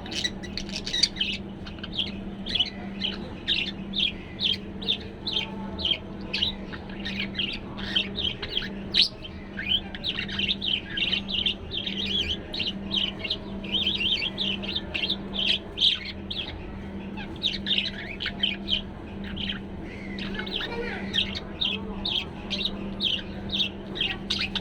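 Male budgerigar warbling: a continuous stream of quick, high chirps, several a second, the chatter a budgie makes when it is content and comfortable. A steady low hum runs underneath.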